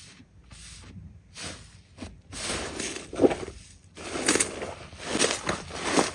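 Slime being squeezed and pressed by hand: a series of short squishing, crackling noises that grow louder and come faster from about two seconds in.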